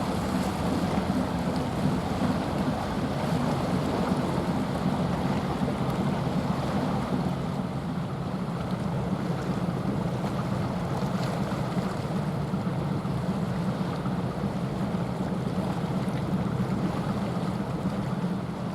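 Steady low drone of a passing container ship, with wind and water noise over it.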